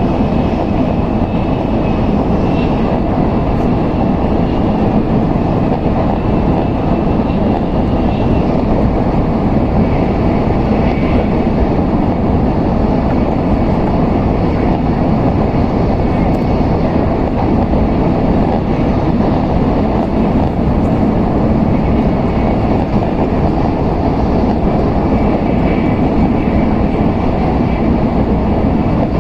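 Steady running noise heard inside the passenger cabin of an N700S Shinkansen at speed: an even, unbroken rumble and rush with a few faint high tones above it.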